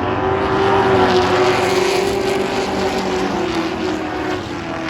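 Several race truck engines running at speed on an oval track, a blend of steady engine tones. The sound swells about a second in as the trucks pass, then eases off.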